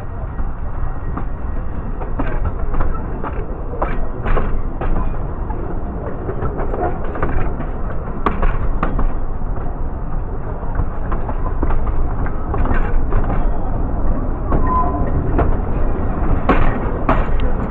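Narrow-gauge railway carriage running along the track: a steady low rumble from the wheels, broken by irregular clicks and clunks as they pass over rail joints and pointwork.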